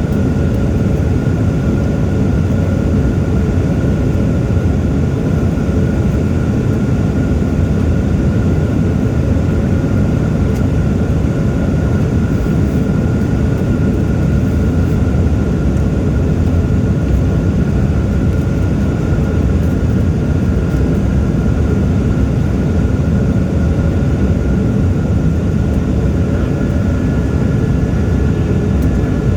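Airliner cabin noise in flight: a steady low rumble of engines and airflow with a thin constant whine above it, and a second faint tone joining near the end.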